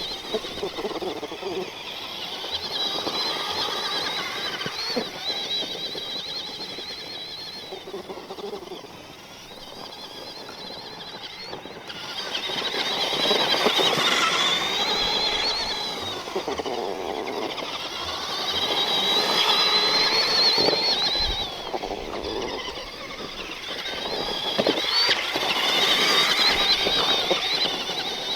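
Axial SMT10 Grave Digger RC monster truck driven hard: its electric motor and all-metal-gear transmission give a high, wavering whine that rises and falls with the throttle, swelling louder several times.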